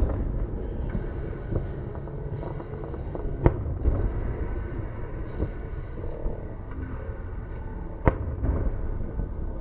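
Fireworks going off: scattered sharp bangs, the loudest about three and a half seconds in and again about eight seconds in, over a continuous low rumble.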